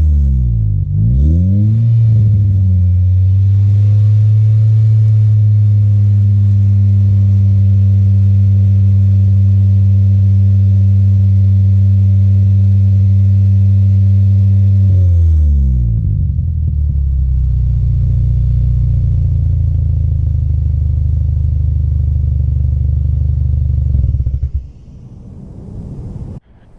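2006 Scion xB's 1.5-litre four-cylinder engine and exhaust revving. The revs dip and climb back in the first couple of seconds, hold steady at a raised speed for about thirteen seconds, then fall to a lower steady speed that cuts off sharply near the end.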